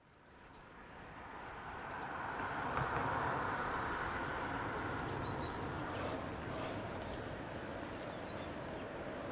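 Distant GBRf Class 73 locomotive-hauled train approaching along the line: a steady low rumble and hiss that builds over the first couple of seconds, with small birds chirping now and then.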